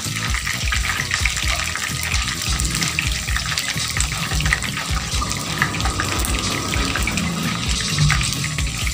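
Breaded chicken strips deep-frying in a pan of hot oil: a steady, dense sizzle and crackle of bubbling oil.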